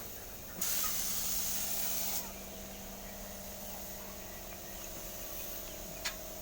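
A spray of paint hissing from an aerosol can for about a second and a half, starting about half a second in and cutting off suddenly, then a single click near the end.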